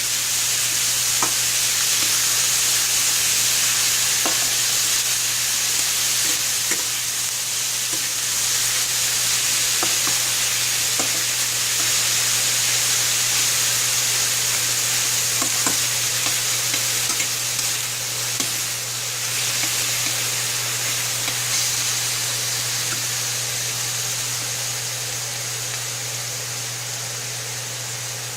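Ground turkey sizzling in olive oil with garlic and onion in a frying pan, browning, with a utensil stirring it and now and then clicking against the pan. A steady low hum runs underneath, and the sizzle eases slightly near the end.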